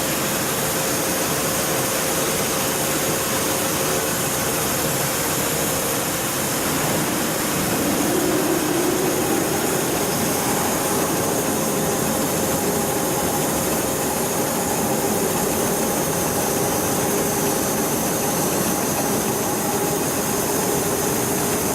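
Heavy-duty bridge-type programmable pattern sewing machine running, giving a steady mechanical noise with a few faint tones held throughout.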